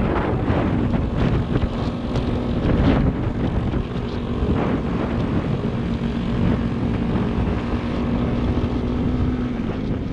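Motorcycle engine running while riding at a steady pace, holding an even note, with wind rushing over the microphone.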